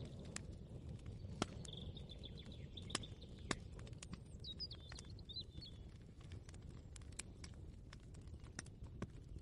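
Ambient kitchen soundscape: a low steady rumble with scattered light clicks and taps at irregular intervals. A small bird chirps over it, a short trill about two seconds in and a few warbling notes around four to five seconds in.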